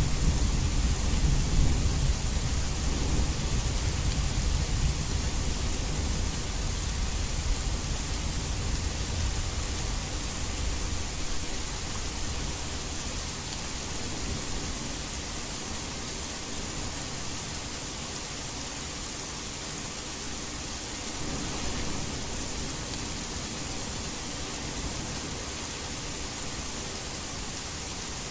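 Heavy rain falling as a steady hiss, with a rumble of thunder at the start that dies away over the first ten seconds or so.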